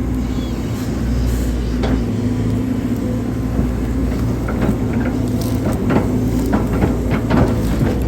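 Hydraulic excavator's diesel engine running steadily under load, with a run of knocks and clatters from about four seconds in.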